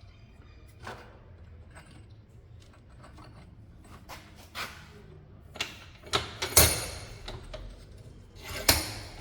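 Metal tools and parts clinking, scraping and knocking while a suspension control-arm bushing is being pushed out with a socket, with a few louder clattering knocks in the second half.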